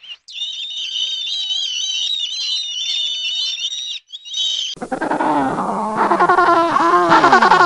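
Black-headed gull calling, a fast run of high, wavering notes for about four seconds. About five seconds in, an African penguin starts braying, louder calls that fall in pitch.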